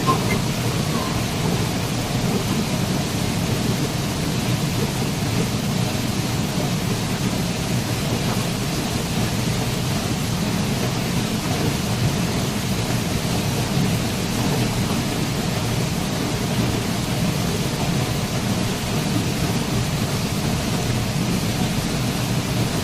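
Waterfall: a steady, unbroken rush of falling water, deepest in the low range.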